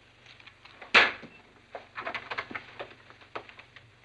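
A sharp knock about a second in, then a scatter of light clicks and knocks: a door being handled and footsteps on a floor.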